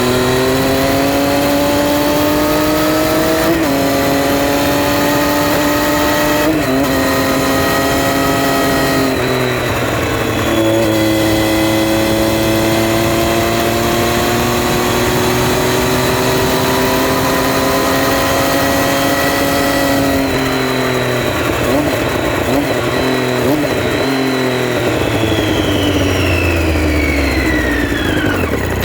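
2011 Triumph Street Triple R's 675 cc inline-three engine pulling hard through two upshifts in the first nine seconds, then easing off and holding steady revs. After about twenty seconds the revs fall with short throttle blips on the downshifts, a falling whine sounds near the end, and the engine settles toward idle.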